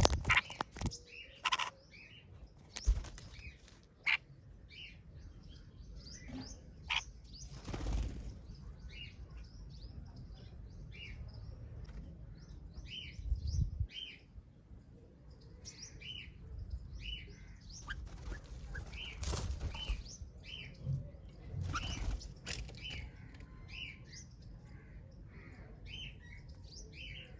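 Small birds at a feeding station chirping with short calls over and over, with occasional wing flutters and sharp knocks.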